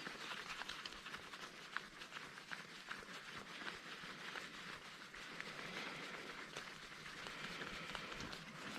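Scrap parts being handled and sorted by hand: faint rustling with many small, irregular clicks and taps of metal and plastic pieces.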